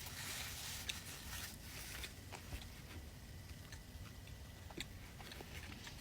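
Faint eating sounds: chewing and biting into food, with scattered small clicks.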